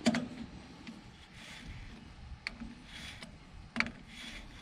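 A few sharp clicks and knocks with soft scraping in between: hand work on a truck's front wheel and suspension, likely rocking it to check for play.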